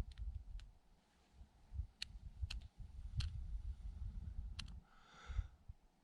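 Small kindling fire of fatwood and twigs just catching, crackling with a handful of sharp, scattered pops, over a gusty low wind rumble on the microphone.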